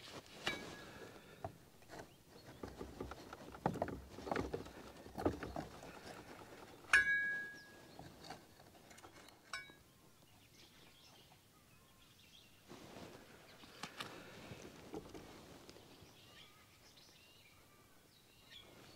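Birds calling, with one short loud call about seven seconds in and fainter chirps later, over soft scraping and tapping of a palette knife working paint on a canvas panel.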